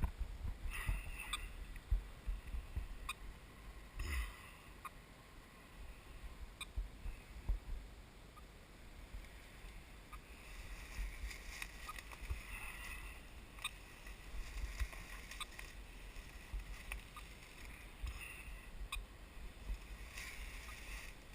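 Footsteps through forest leaf litter and brush: irregular crunching, rustling and small twig snaps, with a low, uneven rumble of wind and handling on a body-worn camera's microphone.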